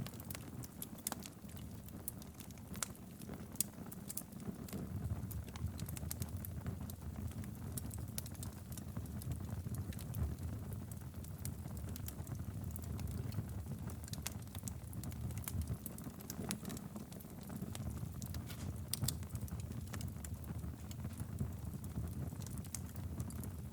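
Wood fire burning steadily in a fireplace: a low rumble of flames with frequent scattered crackles and pops.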